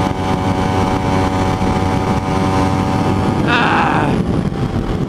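Kawasaki Ninja 250R parallel-twin engine running at steady revs while riding, heard from the rider's helmet, with wind rushing over the microphone.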